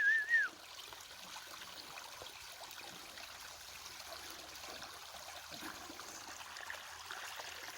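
Creek water flowing and trickling, a faint steady rush. A brief high-pitched call, the loudest sound here, sounds right at the start.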